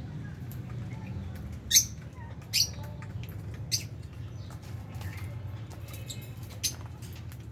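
Lovebirds in an aviary giving short, sharp high chirps four times, the loudest about two seconds in, with faint ticking between them. A steady low hum runs underneath.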